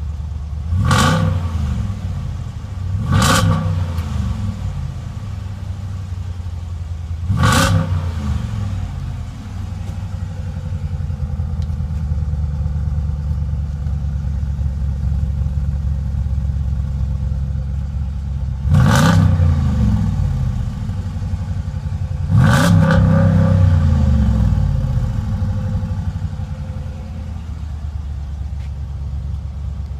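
Chrysler 300 SRT's Hemi V8 through a cat-back exhaust with a cold air intake, idling and revved five times. Each rev rises sharply and falls back to idle; the last two come late and hang on a little longer.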